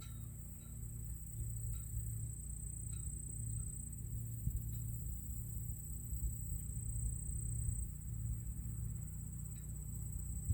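Steady high-pitched drone of summer insects over a low rumble of breeze on the microphone, with faint short chirps about once a second.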